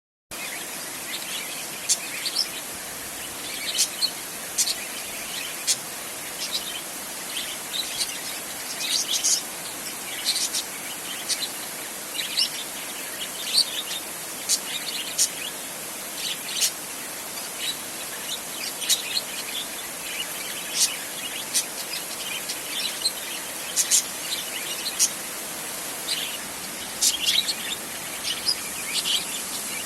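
Steady hiss of rain on a tin roof, with frequent sharp, high pings standing out above it, one every second or so.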